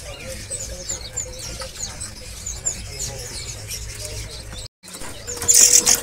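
Caged birds chirping: a quick run of short, high chirps, about three a second, that thins out after three or four seconds. Near the end, after a brief drop-out, comes a louder scratchy rustle.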